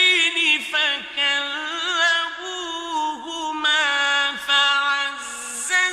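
A man's voice chanting Quranic recitation (tajweed): long held notes with wavering melismatic ornaments, in one unbroken phrase.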